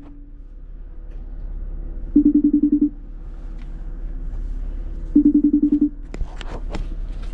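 A phone vibrating with an incoming call: a short pulsing buzz that repeats about every three seconds, with a few knocks between the buzzes near the end.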